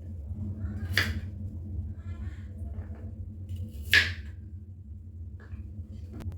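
Two sharp clicks or knocks over a steady low hum, the louder one about four seconds in.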